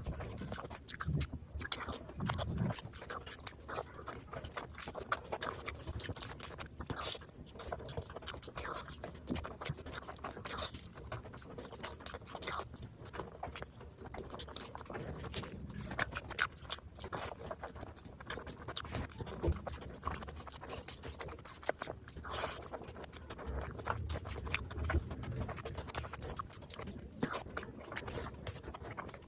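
Close-miked eating of chicken biryani by hand: chewing, lip smacking and many short wet clicks from the mouth, going on without a break.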